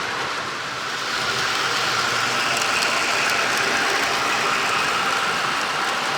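Model train running on the layout: a steady rattle of wheels on track with a thin motor whine, growing a little louder about a second in as it comes closer.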